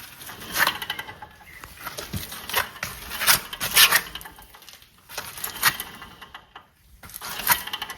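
Worn wheel bearing on a BMW F11 520d, spun by hand with the brake disc fitted: a rough metallic grinding with rattly clicks that rises and falls in several surges as the disc is turned. The owner judges the bearing bad and due for replacement.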